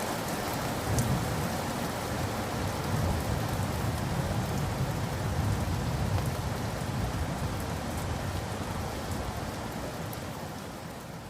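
Steady rain falling, with a few sharp drop ticks over a low rumble underneath. It begins to fade out near the end.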